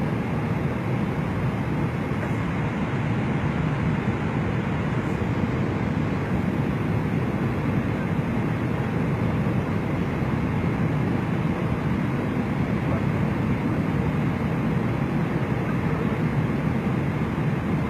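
Airliner cabin noise during a landing: a steady low rumble of jet engines and airflow that stays even throughout.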